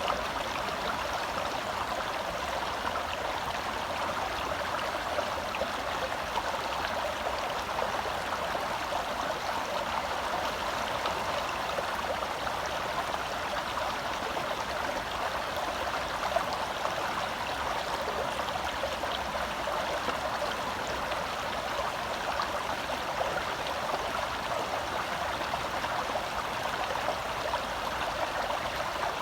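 Forest stream flowing over rocks: a steady rush and babble of water, even throughout.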